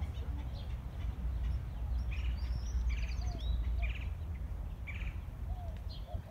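Small birds chirping in short bursts, thickest from about two to five seconds in, over a steady low rumble.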